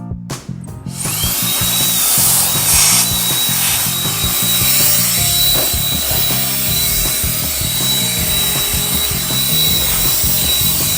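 Handheld mini jet blower (COLBOR AirMaxx A1) spinning up with a rising whine about a second in, then running at full speed with a steady high-pitched whine and a rush of air.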